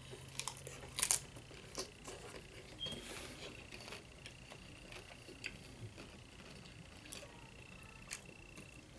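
Close-up eating sounds: a mouth biting and chewing loaded nacho chips, with scattered crisp crunches, the loudest about a second in and softer ones spread through.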